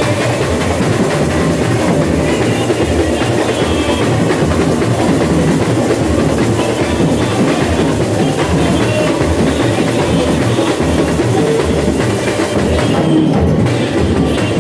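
A samba bateria playing a dense, loud, steady samba rhythm with massed drums and percussion.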